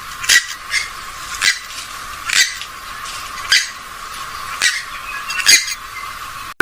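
Short, harsh squawking calls of a swamphen or moorhen (rail family), repeated roughly once a second, with the low end cut away.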